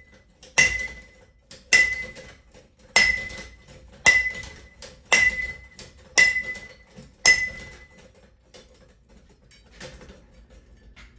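Seven heavy blows about a second apart, each leaving a short metallic ring, as a ceiling fan's metal parts are smashed. A few faint knocks follow near the end.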